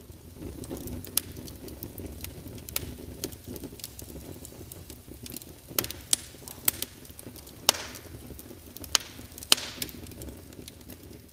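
Irregular sharp crackles and pops, a few of them loud, over a steady low rumble.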